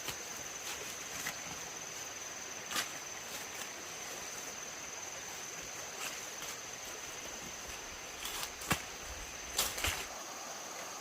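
Outdoor ambience with a steady high insect drone, broken by a few sharp snaps and rustles, the loudest about two-thirds of the way through.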